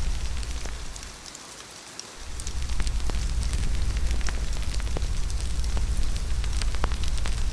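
Steady rain with a low rumble underneath, dotted with scattered sharp crackles of a wood fire. The low rumble drops away for about a second, a second or so in, then returns.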